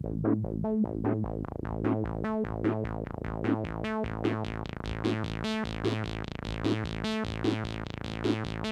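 Boss SY-200 synthesizer pedal running a step-sequencer pattern: a fast, even pulse of synth notes, several a second. The pattern is built from one sustained open A string on an electric guitar, with a steady low A drone under it.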